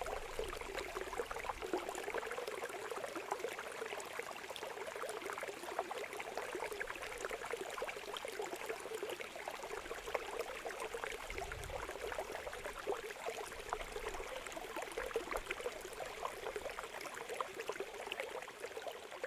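Running water trickling and babbling like a small stream, a steady rush full of tiny splashes.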